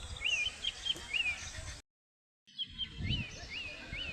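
A bird calling over and over in short, quick chirps that rise and then fall, about two a second, over outdoor background noise. The sound cuts out completely for about half a second near the middle, then the calls go on, with a couple of low thumps late on.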